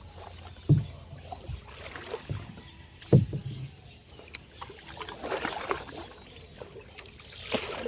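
Kayak paddles dipping and splashing in river water in irregular strokes, with a few dull thumps.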